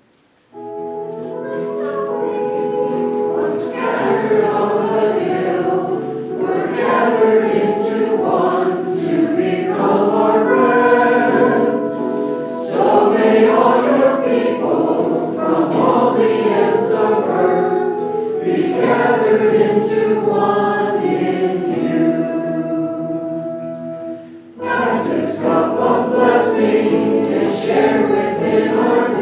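A choir singing, with held notes; it starts about half a second in and breaks off briefly near the end before going on.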